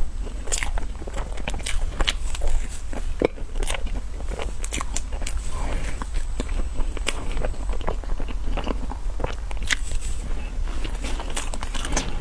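Close-miked chewing and mouth sounds of someone eating a cream roll: irregular soft clicks and smacks over a steady low hum.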